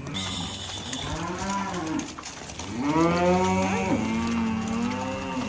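Cattle mooing: a couple of shorter moos, then one long, loud moo from about three seconds in.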